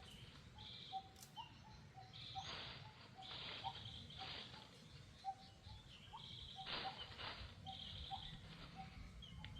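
Faint outdoor ambience of birds calling: short high trills that come and go, and small repeated rising chirps, with a few brief rustles over a low background rumble.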